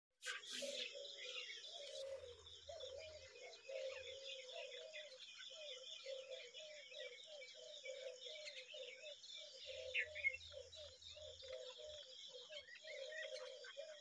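Birds chirping: a steady run of short, low repeated notes, about three a second, with busier high twittering over them.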